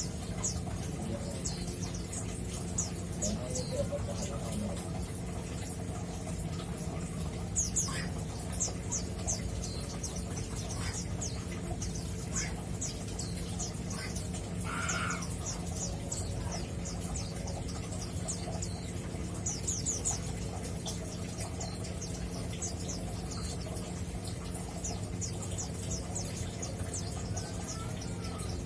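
Male mountain white-eye (pleci Monty) chirping and twittering in quick clusters of short, thin, high notes, over a steady low hum.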